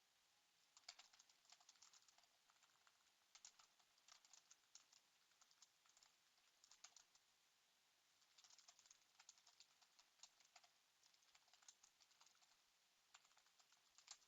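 Faint typing on a computer keyboard: runs of quick keystrokes a second or two long, broken by short pauses.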